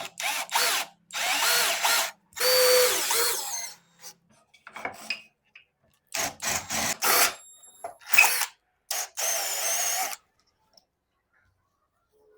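Power drill run in a series of short bursts, each a fraction of a second to about a second and a half long, with pauses between.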